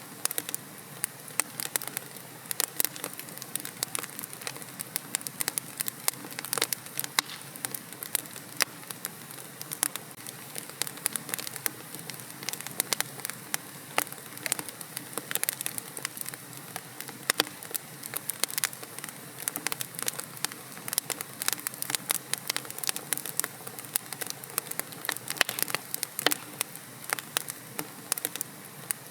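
Fireplace fire crackling, with frequent irregular sharp pops and snaps over a steady soft hiss.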